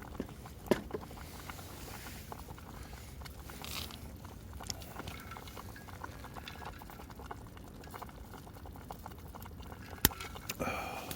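Wood campfire crackling: scattered sharp pops and small clicks over a faint steady hiss, with one loud pop near the start and another near the end.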